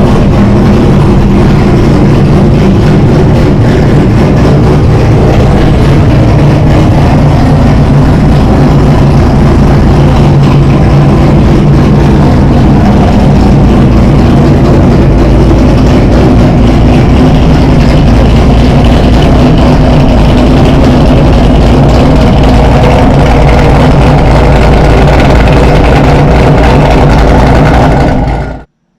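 A sports car's V8 engine running loudly at a steady fast idle just after a cold start. It cuts off suddenly near the end.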